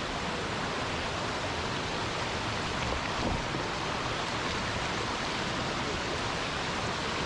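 Steady rush of a forest stream flowing over rocks.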